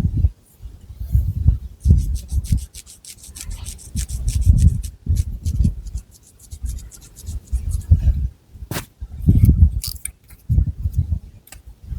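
Long fingernails scratching and rubbing through thick long hair on the scalp, in repeated strokes about once a second with a fine crackle of hair, and a couple of sharp clicks later on.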